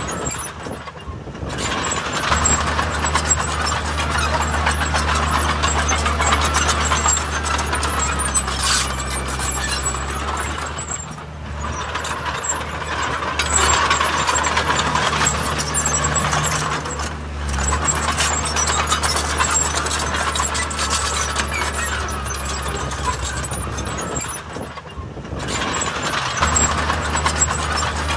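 Heavy diesel earthmoving machinery running, a steady low engine hum under dense mechanical clatter, with a few short drops in level.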